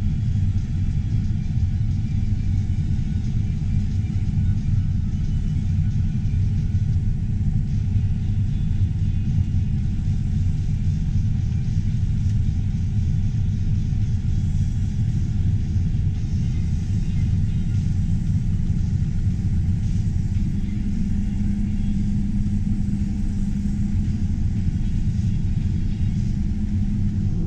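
Harvest machinery's diesel engine running steadily under load, a constant low rumble with no change in speed.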